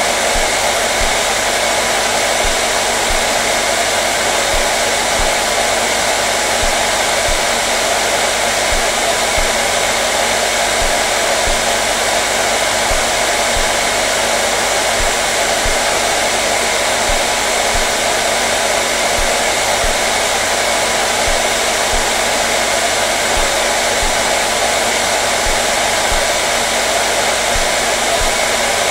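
Hair dryer running steadily with a loud, even whoosh of fan and airflow noise and a faint steady hum, used as continuous white noise.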